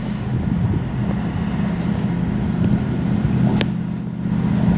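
Diesel engine of a rail vehicle running with a steady low drone, with a single sharp click about three and a half seconds in.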